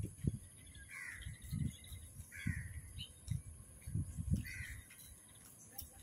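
A bird giving three short, rough calls spaced a second or two apart, over irregular low rumbles on the microphone.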